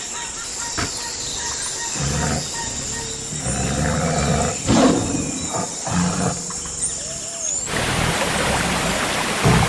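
Wild animal sounds: repeated low roar-like calls with birds chirping high above them, cut about eight seconds in by a steady rain-like hiss.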